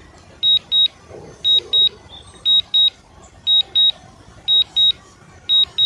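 Drone controller's low-battery warning: high-pitched double beeps repeating about once a second, signalling that the drone's battery is critically low and it must land.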